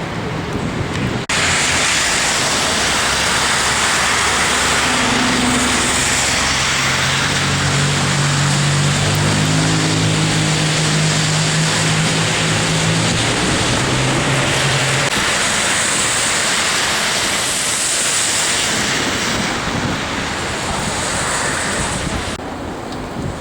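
Storm wind blowing hard across the microphone with city traffic noise, starting abruptly about a second in and dropping away near the end. A vehicle's engine hums low through the middle for about ten seconds.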